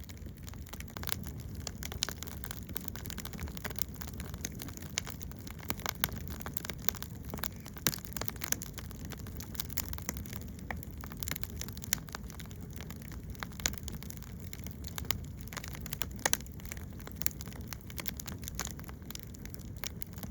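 Oak firewood burning in a brazier, crackling with irregular sharp pops over a low steady rumble.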